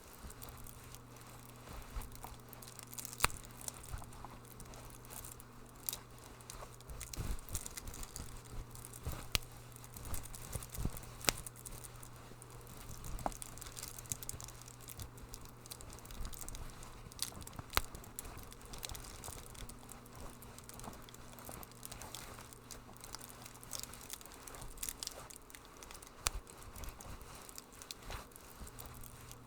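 Wood fire crackling in a fireplace, with irregular sharp pops and snaps over a steady low hum.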